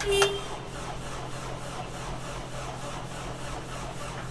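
Tractor diesel engine cranking over on the starter in the cold, a rhythmic chug of about four strokes a second, with a short tone right at the start as the key is turned.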